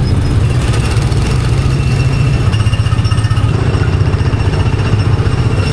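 A vehicle running: a steady, loud low rumble with a rapid flutter, like engine, road and wind noise heard in a moving car.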